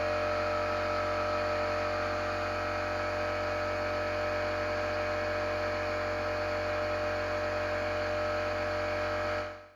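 A die grinder rigged as a tool-post grinder on a lathe, running at steady speed: an even, high machine whine over a low hum. It cuts off suddenly near the end.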